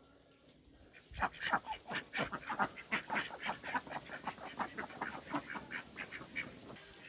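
Indian runner ducks quacking: a rapid run of many short calls that starts about a second in and thins out near the end.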